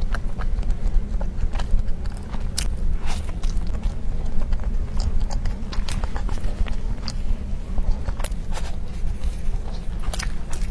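Close-miked chewing and mouth sounds of someone eating soft pastry, with irregular small wet clicks and smacks, over a steady low hum.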